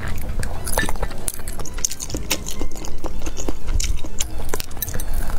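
Close-miked wet chewing and lip smacking of someone eating spicy, heavily sauced food, with irregular small clicks and squelches.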